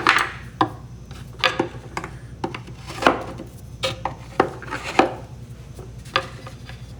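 Metal hand tools, wrenches among them, clinking and knocking against a wooden toolbox as they are set into their slots, with about a dozen irregular sharp clacks.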